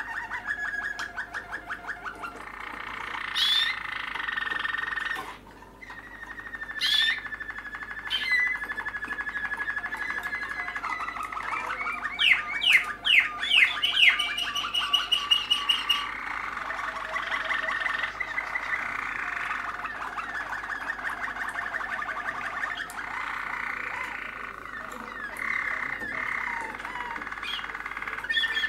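Young Malinois (Waterslager) canaries singing: a continuous run of fast rolled trills that change to a new pattern every few seconds, with a burst of louder, quick sweeping notes about twelve seconds in.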